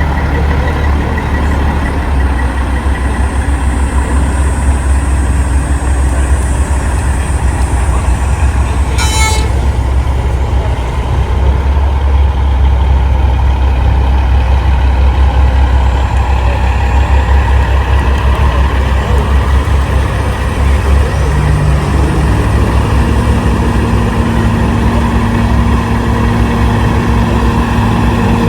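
Diesel engines of big-rig trucks running loud and steady as they roll by in a convoy, with a brief high-pitched toot about nine seconds in.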